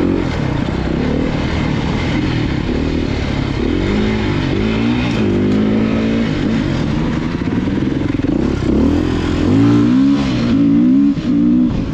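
Dirt bike engine revving up and down with repeated throttle blips, its pitch rising and falling over and over, loudest near the end.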